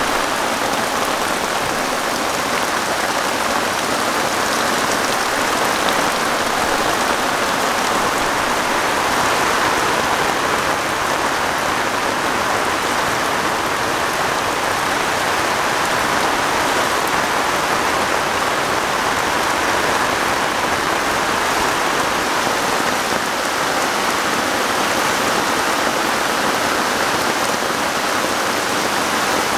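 Torrential downpour: heavy rain falling steadily in an even, unbroken hiss.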